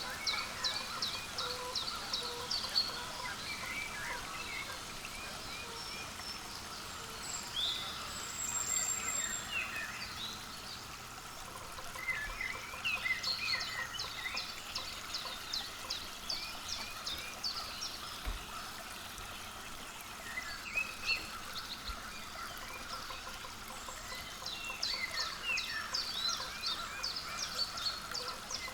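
Small wild birds chirping in quick runs of high calls, in three bouts about ten seconds apart, over a steady outdoor background.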